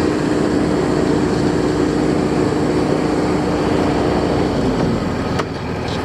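Heavy construction machinery running steadily, its engine hum sliding down in pitch and the noise easing off about five seconds in.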